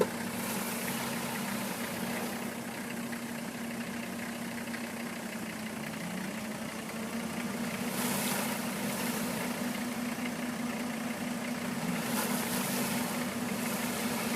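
Off-road vehicle's diesel engine idling steadily, with brief washes of hiss a couple of times.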